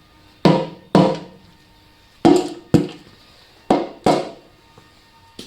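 Hammer blows on metal during teardown of a Holden 253 V8 engine: six sharp strikes in three pairs, each ringing briefly.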